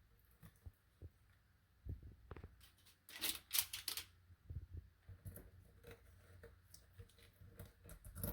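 Scattered knocks and clicks of things being handled, with a short burst of rustling about three seconds in.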